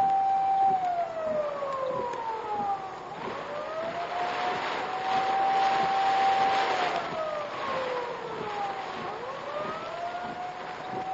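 Emergency vehicle siren wailing, holding a high note and then sliding down and back up again in a slow cycle of about six seconds, twice. Under it runs a steady rushing noise.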